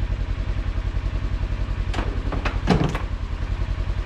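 A small engine running steadily at idle with an even low putter, with a few sharp clicks and a short clatter of handling in the middle.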